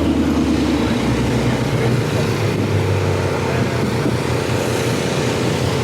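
Car engine running steadily with a deep, even rumble; the pitch steps down slightly about a second in.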